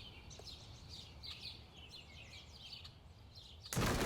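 Small birds chirping and singing, many short quick calls, over a low steady background rumble. Near the end a sudden loud rush of noise covers everything.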